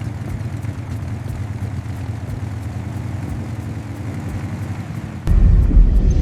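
Car engine idling steadily, growing clearly louder about five seconds in.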